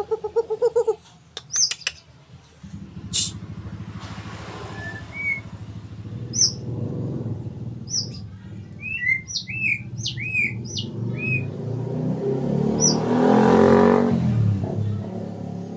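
White-rumped shama (murai batu) singing in short, clear whistled notes and downward-curving chirps, busiest in the middle. A motor vehicle's engine hums underneath and grows louder as it passes about three-quarters of the way through.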